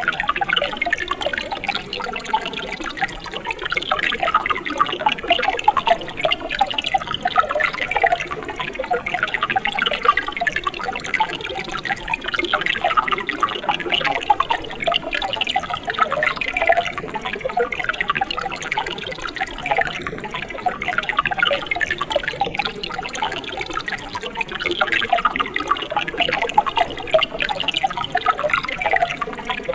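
Mountain stream burbling steadily over rocks, a dense, even run of small bubbling and splashing sounds.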